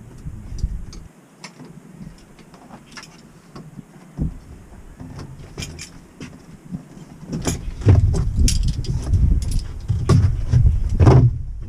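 Working noise: scattered clicks and metallic clinks of tools and fittings being handled, with a run of heavier low thumps and knocks in the second half.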